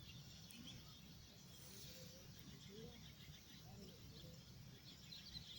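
Near silence: faint outdoor ambience, a low rumble with a thin high hiss.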